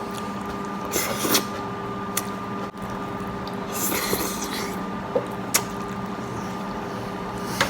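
A person eating curd rice noisily: two short wet slurps, about a second in and about four seconds in, and a few sharp smacking clicks, over a steady hum.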